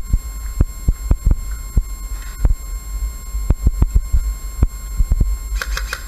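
A series of sharp, irregularly spaced clicks or snaps, a dozen or so, over a steady low rumble.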